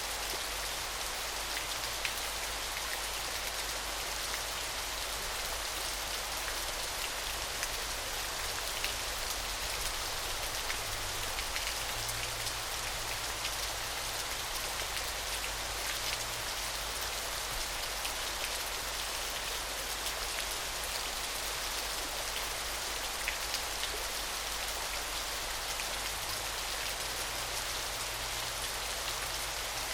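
Small, gentle waterfall: a steady hiss of falling and splashing water, mostly high in pitch with little deep rumble, sprinkled with faint droplet ticks.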